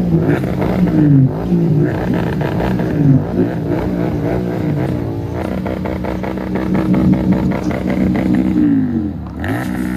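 Kawasaki ZX-10R's inline-four engine revved in a series of quick rises and falls, then held at a steady pitch for a few seconds before dropping back about a second before the end.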